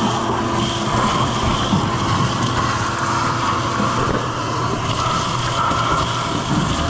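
Vacuum running steadily, sucking dirt and loose debris out of an old air compressor's engine compartment.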